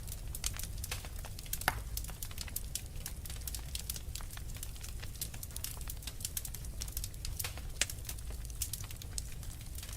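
Wood fire crackling in a fireplace: a steady run of sharp small pops and ticks over a low rumble, with one louder pop about two seconds in.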